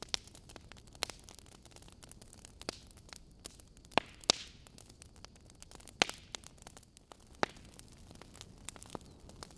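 Logs burning in a fireplace, crackling: irregular sharp pops and snaps over a soft steady hiss, with the loudest pops about four seconds and six seconds in.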